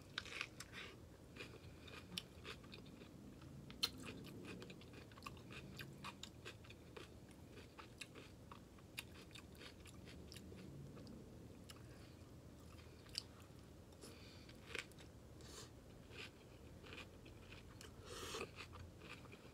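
Close-up chewing and biting of a cheesy stuffed bell pepper: soft crunches and wet mouth clicks, with a sharper click about 4 seconds in and another about 13 seconds in.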